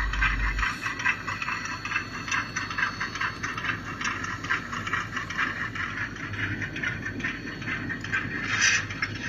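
Model train running along the layout's track, a steady busy rattle of small clicks from the wheels and running gear over a faint motor hum. A deep low hum cuts off within the first second.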